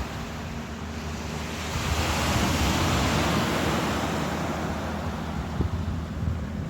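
Ocean waves washing ashore: one swell of surf builds about two seconds in and slowly ebbs, over a low rumble.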